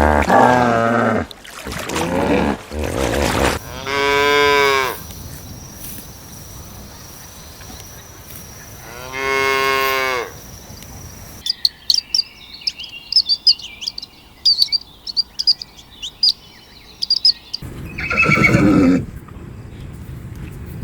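Cow mooing: two long, steady-pitched moos a few seconds apart. They are followed by a string of short high-pitched chirps or clicks and a brief rough call near the end.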